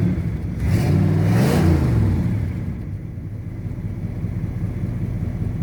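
1983 Pontiac Firebird's small-block V8 running just after a cold start: the revs rise and fall back about a second in, then it settles into a steady idle.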